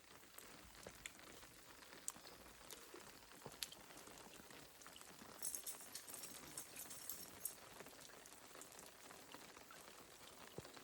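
Faint light rain, scattered drops ticking and pattering. A brief high-pitched rattling comes in from about five and a half to seven and a half seconds in.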